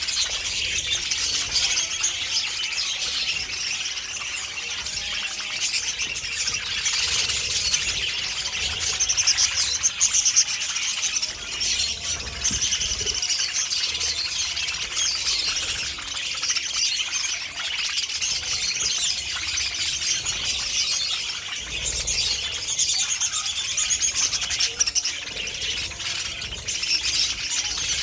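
Budgerigars chattering and chirping continuously, a dense overlapping stream of quick high chirps.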